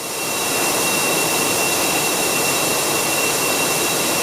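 Flour mill roller mill running, its steel rollers crushing wheat: a loud, steady machine rush with a thin, high, steady whine over it.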